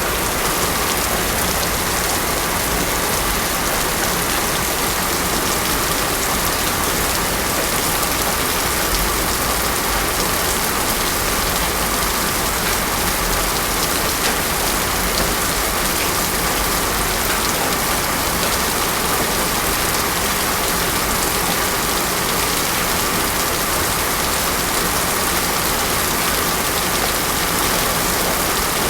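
Heavy rain falling steadily on a road surface, a dense even hiss with no thunder.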